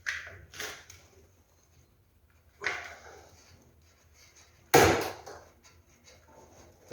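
A few separate knocks and clunks, each dying away quickly, the loudest nearly five seconds in.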